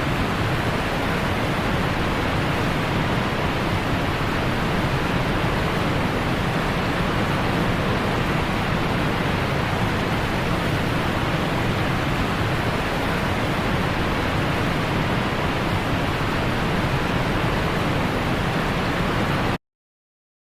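Steady rushing roar of the Dudhsagar waterfall, even and unbroken, cutting off suddenly about a second before the end.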